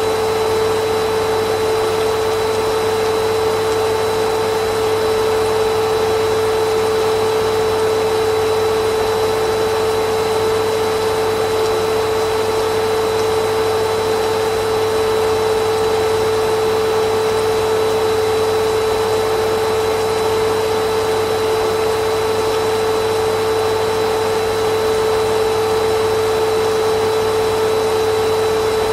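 Vacuum cleaner motor running continuously at a steady speed: a constant whine over an even rush of air, with no change in pitch or level.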